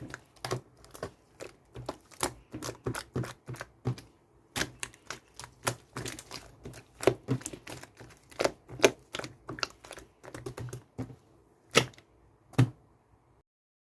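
Slime being squeezed and poked by hand, making rapid irregular sticky clicks and pops that thin out near the end to a couple of louder pops before stopping.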